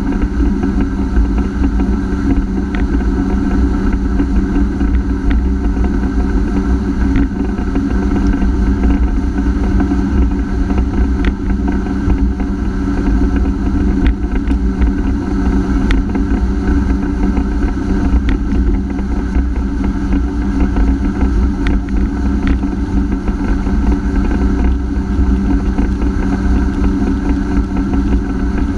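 Honda AquaTrax F-12X personal watercraft engine running at a steady, unchanging pitch, with a heavy low rumble underneath.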